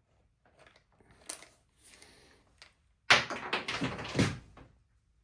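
Small clicks and knocks of hand tools and metal parts being handled, then a loud sudden clatter about three seconds in that lasts over a second.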